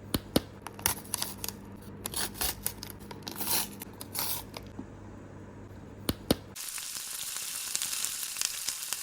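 Plastic and foil toy packaging being handled: scattered clicks and short crinkling and tearing noises, giving way to a steady crackly hiss about six and a half seconds in.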